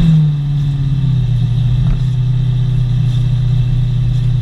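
Drag-built Corvette's V8 engine running while the car cruises slowly, heard from inside the open-top cabin. The engine note drops in pitch just after the start as the revs fall, then holds a steady low drone.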